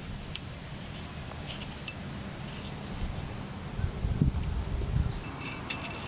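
Light metallic clicks and clinks of small clutch parts and washers being handled and pulled off a motorcycle clutch, over a low steady hum. A few soft thuds come about two-thirds of the way in, and a quick run of clicks comes near the end.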